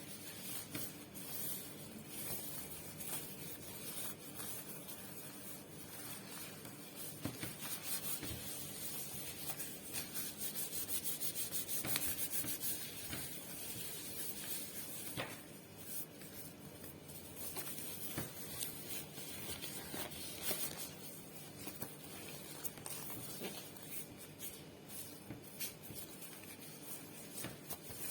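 Rubber-gloved fingers rubbing and scratching close on a microphone, a soft crackly rustle with light ticks and a quicker run of taps about halfway through.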